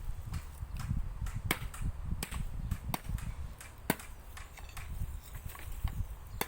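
Wind rumbling and buffeting against the microphone, with several sharp, separate clicks or taps scattered through it.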